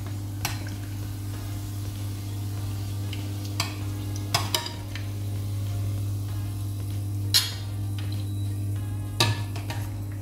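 Fry bread dough sizzling as it fries in shallow hot oil, while a metal spoon scoops oil over the top, knocking and scraping against the pan in several sharp clicks. A steady low hum runs underneath.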